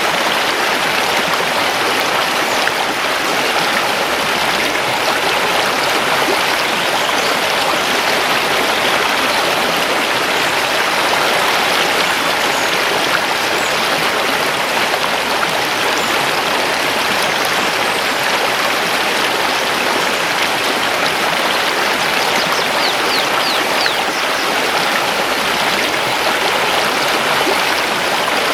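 Mountain river rushing over stones in a steady, even flow. Faint high bird chirps come through a few times, most clearly near the end.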